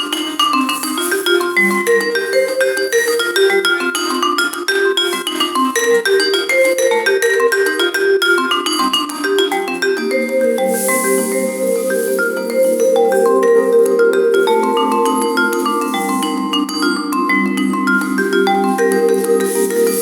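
Instrumental music played on mallet percussion, a marimba-like instrument, in quick runs of struck notes; about halfway through the texture thickens into a denser wash of overlapping notes.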